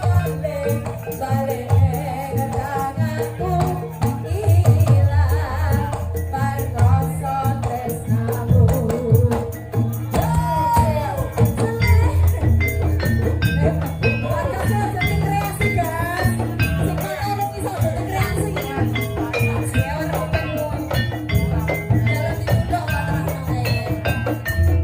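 Live gajah-gajahan folk band music with a steady beat, a repeating bass line and rattling, jingling percussion, with a melody over it.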